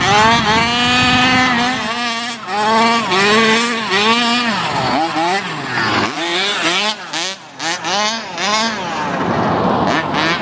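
30cc two-stroke engine of a 1/5-scale RC truck, fitted with a tuned pipe, revving up and down over and over as the throttle is worked, with shorter, quicker blips in the second half.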